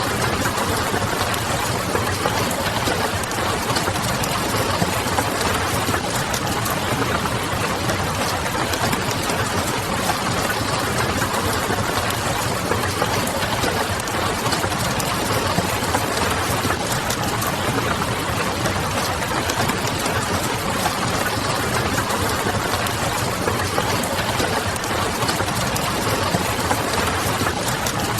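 Wood fire crackling with many small, quick pops over a steady patter of rain. The texture is dense and unbroken, with no single louder event.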